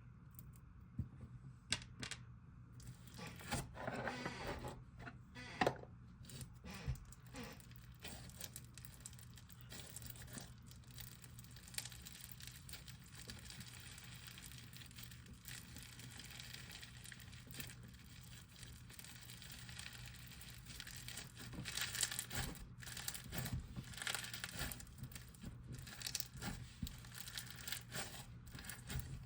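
Bingsu slime, dense with small plastic beads, being squished and pulled by hand for ASMR, giving a run of small crunchy crackles and clicks. It grows louder a few seconds in and again near the end.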